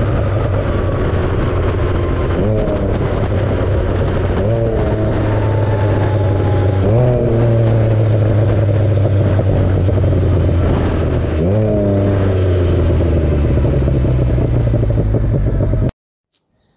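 Can-Am Spyder F3's engine running loud under way, its pitch rising sharply and easing off four times as the throttle is blipped or the gears shift. The sound cuts off abruptly near the end.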